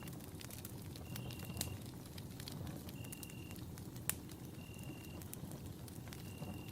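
Campfire burning with a steady low rumble and scattered crackles and pops, one sharper pop about four seconds in. A short, high, steady note repeats about every one and a half to two seconds over it.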